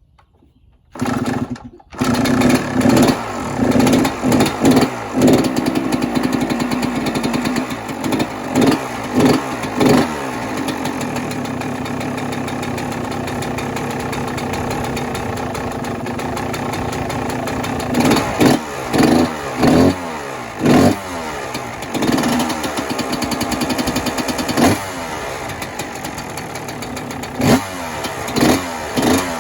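Yamaha YZ125 two-stroke dirt bike engine started on the choke: a short burst about a second in, then it catches and runs. It idles steadily with repeated quick throttle blips, a cluster of revs near the start, a few more in the middle and again near the end.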